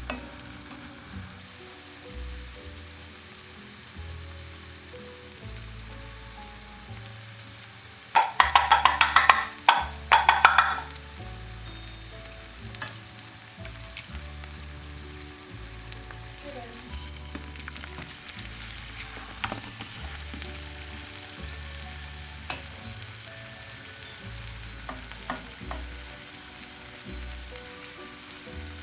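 Food frying in a pan: a steady sizzle with stirring and scattered ticks, broken about a third of the way in by a loud burst of crackling sizzle lasting two to three seconds.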